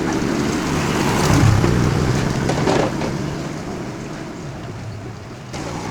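A motor vehicle going past: engine and road noise swell to a peak about a second and a half in, then fade, with an abrupt change in the sound just before the end.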